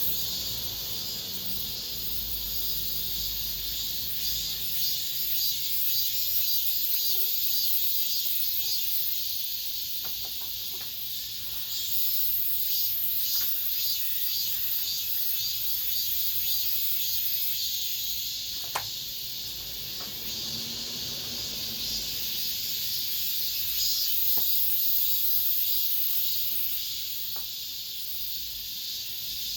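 Cicadas singing in chorus, a dense, steady high-pitched buzz with a slight pulsing texture. A single sharp click cuts through about two-thirds of the way in.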